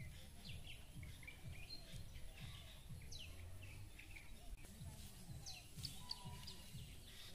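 Birds chirping, many short falling whistles and tweets scattered throughout, over a faint low rumble.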